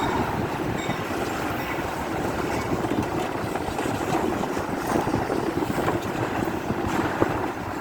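Train rolling by: a steady rumble and rail noise, with one sharp click near the end.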